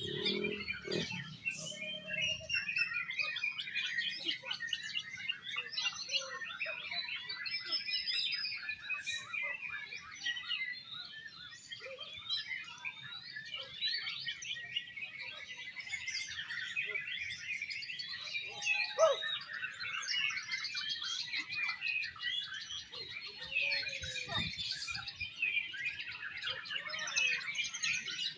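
Several oriental magpie-robins (kacer) singing at once in a dense, unbroken stream of quick overlapping chirps and whistles.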